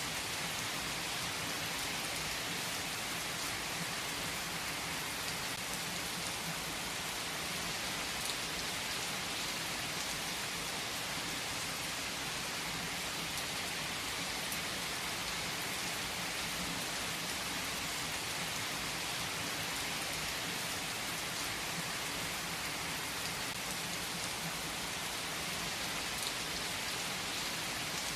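Steady rain falling on a surface: an even, dense hiss that holds without let-up, with the odd louder drop.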